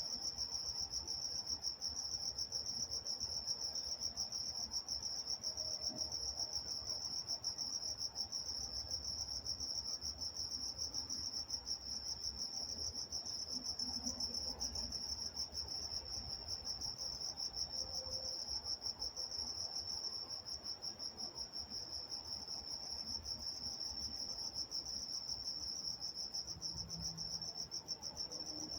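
Crickets chirping in a steady, continuous high-pitched chorus at night, with a faint low background rumble.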